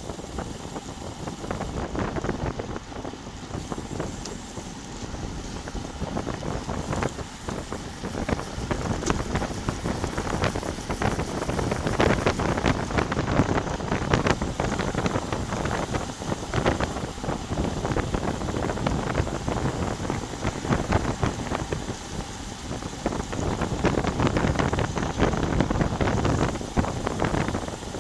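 Wind buffeting the microphone of a bike-mounted camera during a road ride, a rough, rumbling roar that surges louder twice, with scattered clicks and rattles.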